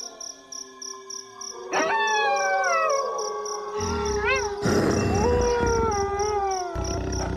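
A chorus of wolves howling: several long, overlapping howls begin about two seconds in, sliding down in pitch, with a short wavering call among them. Under them runs a steady high pulsing, about three to four beats a second, and a low rumble joins about halfway through.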